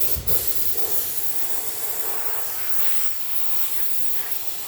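A steady, high hiss of air or liquid being sprayed, running without a break.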